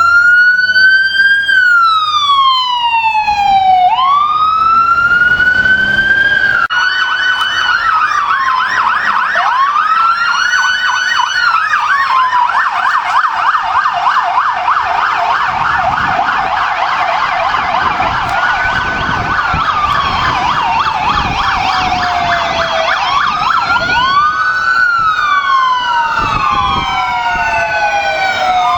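Emergency-vehicle sirens. A wail sweeps slowly up and down, then a fast yelp starts about seven seconds in over a continuing wail. Near the end several wails overlap, out of step with each other.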